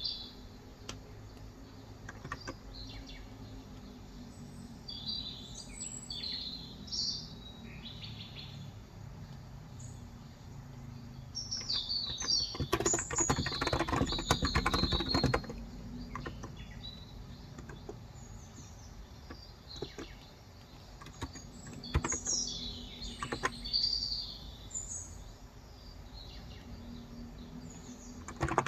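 Small birds chirping outside in short repeated calls throughout. About halfway through comes a few seconds of fast typing on a Cox Endeavor electrocapacitive keyboard with 35 g switches.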